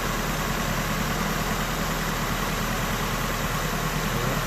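Nissan SR20DET turbocharged 2.0-litre four-cylinder idling steadily while warm. Its head gasket is blown: combustion gas is being forced into the cooling system.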